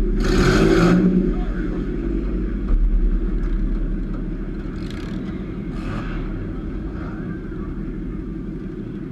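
Demolition derby car engine running hard under load, with a loud crash lasting under a second near the start and two shorter, weaker noises about five and six seconds in.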